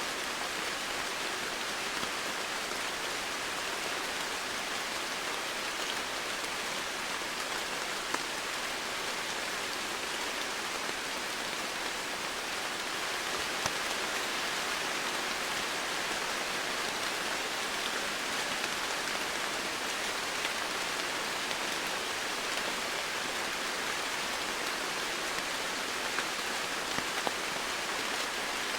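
Steady rain falling, an even hiss with scattered drops striking surfaces.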